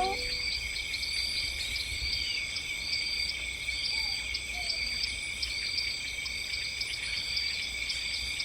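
Steady chorus of insects, several high-pitched drones together, with a short chirp repeating about one and a half times a second.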